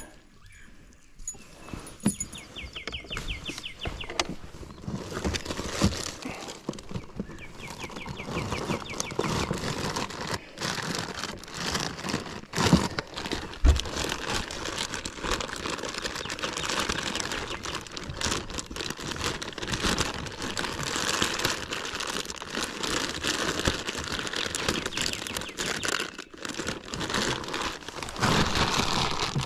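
Steady rustling and crackling, dense with small clicks and a few sharper knocks, with a short run of fast high ticks about three seconds in and again around eight seconds in.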